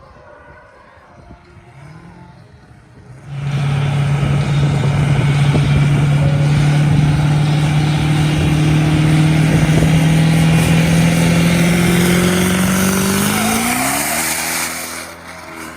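Engine held at steady high revs with tires spinning in a burnout, starting suddenly about three seconds in and running loud for about ten seconds under a hiss of tire noise. Near the end the revs climb briefly before the sound dies away.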